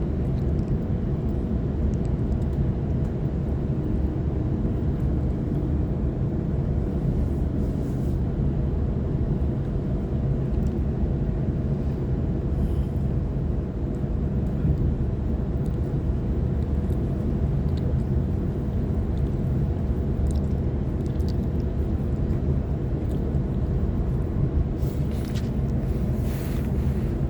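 On-board running noise of a Waratah electric train in motion: a steady low rumble of wheels on the track with a faint steady hum. A few faint clicks come near the end.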